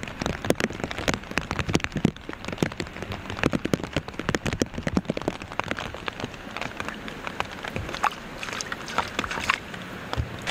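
Steady rain, with raindrops striking the plastic bag wrapped over a Rode microphone as a dense run of sharp ticks over a steady hiss. The ticks thin out over the last few seconds.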